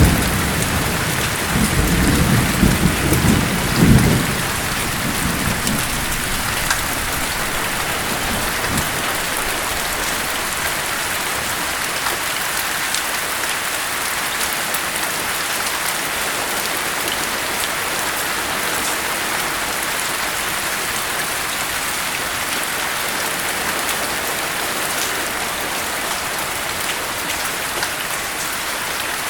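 Steady heavy rain falling, with a roll of thunder rumbling at the start that dies away within the first few seconds, leaving only the hiss of the rain.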